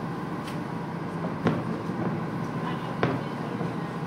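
Fireworks shells bursting: a faint bang, then two sharp bangs about a second and a half apart, over the steady low drone inside a boat's cabin.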